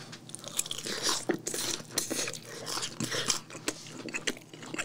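A person chewing a mouthful of rose-sauce boneless chicken: irregular soft clicks of biting and chewing.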